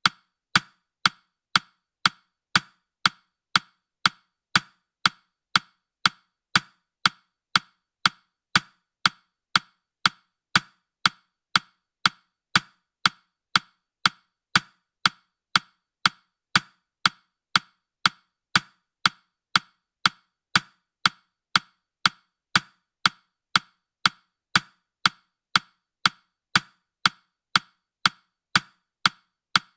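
Countdown timer's ticking sound effect: short, sharp, woody clicks evenly spaced about twice a second.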